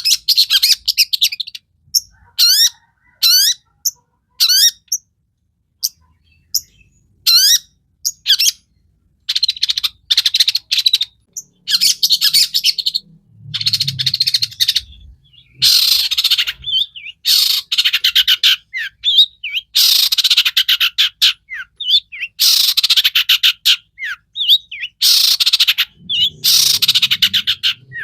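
Long-tailed shrike (cendet) singing in a full, varied song. For the first several seconds it gives short, sharp whistled notes about a second apart. Then come long runs of rapid chattering phrases, each a second or two long, with brief pauses between them.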